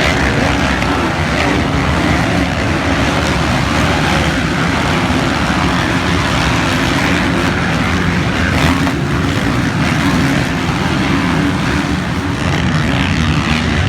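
Motocross motorcycle engines running together, a steady, unbroken drone of several bikes.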